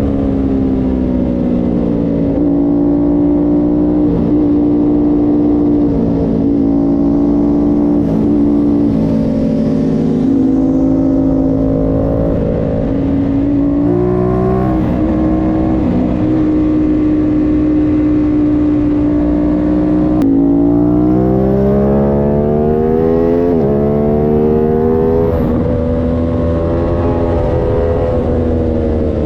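Aprilia Tuono 660's parallel-twin engine running hard at high revs, its note holding steady for long stretches, then falling and climbing again a few times about two-thirds of the way through as the rider shifts and brakes.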